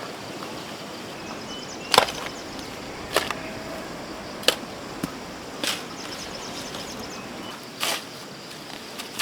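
A hand tool chopping: a series of sharp strikes about every one to two seconds, with a longer gap near the end.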